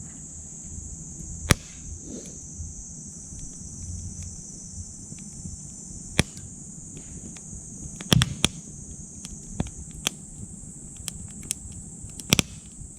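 Wood fire crackling in a small titanium wood stove, with sharp pops at irregular moments: loud ones about a second and a half in, around six seconds, a quick cluster around eight seconds and one more near the end. Behind it runs a steady high chirring of insects.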